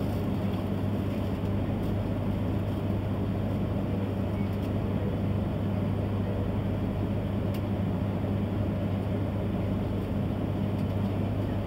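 Steady low hum inside a stationary E3-series Shinkansen car standing at a platform: the train's onboard electrical equipment and ventilation running while it waits.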